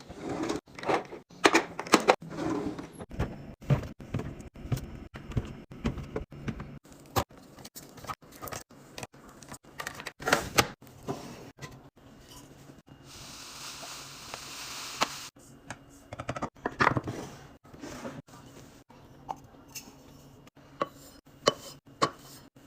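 Household containers being handled during a restock: a run of sharp taps, clicks and knocks as plastic bottles, lids and packages are picked up and set down. A steady rushing hiss lasts about two seconds past the middle.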